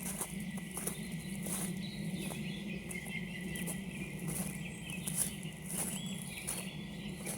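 Footsteps crunching on frosty, frozen woodland ground at an even walking pace, about one step every 0.7 seconds, over a steady low hum, with faint distant bird calls.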